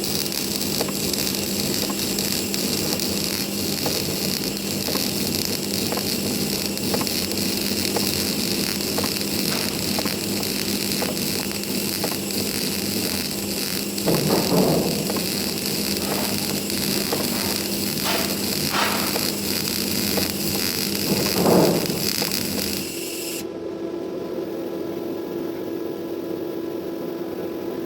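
Semi-automatic MIG welding arc crackling steadily through a long weld, stopping about five seconds before the end and leaving a steady hum.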